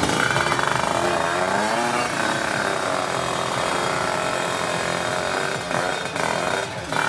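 The engine of a tuned 155cc Kawasaki Ninja two-stroke drag bike revving, its pitch rising and falling several times.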